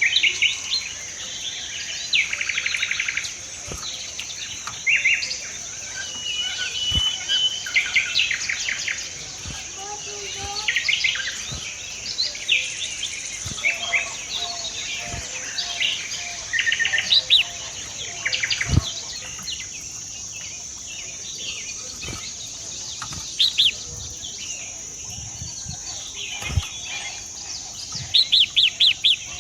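Birds chirping and calling in quick short notes and trills, over a steady high-pitched drone.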